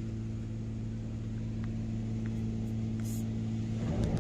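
Steady low electric hum of automatic car wash machinery, with a few faint ticks, and a low rumble swelling near the end.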